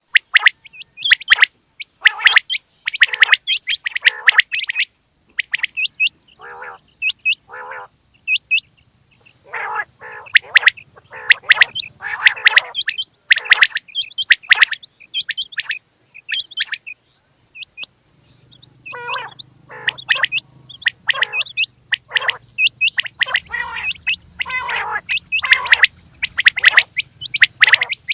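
Female quail calling: runs of short, sharp calls in quick clusters with brief pauses between them.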